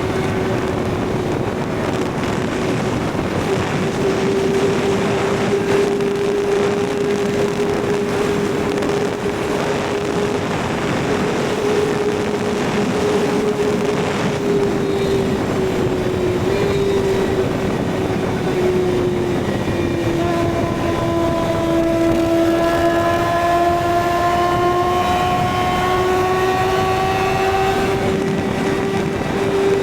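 Kawasaki ZX-6R inline-four engine running at steady high revs while cruising, its pitch drifting only slightly, over wind rush. About two-thirds in, a second engine tone joins and slowly climbs in pitch.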